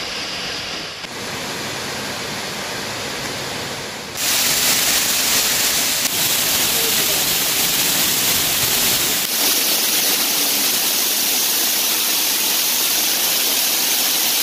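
Waterfall: steady rushing water that gets louder and brighter about four seconds in.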